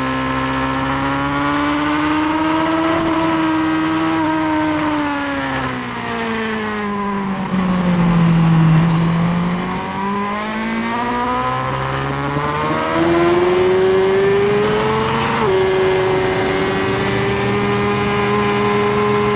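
2018 Suzuki GSX-R1000R's inline-four engine running hard, heard from onboard. Its pitch climbs and sags with the throttle, falling to its lowest about eight seconds in. It rises again, steps up around thirteen seconds and drops sharply about fifteen seconds in.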